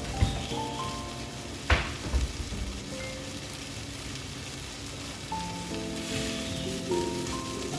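Boneless chicken thighs sizzling steadily in a frying pan, with a sharp knock about two seconds in. Soft background music plays underneath.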